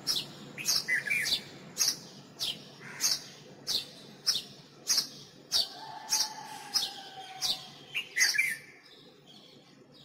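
A bird repeating a sharp, high chirp at a steady pace, about one every half second, with a few short lower twitters mixed in; the calling stops near the end.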